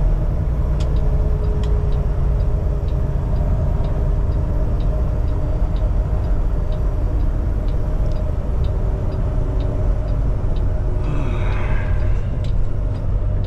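Semi truck's engine running steadily, heard inside the cab, with a turn signal ticking evenly about once every 0.7 seconds as the truck takes the exit.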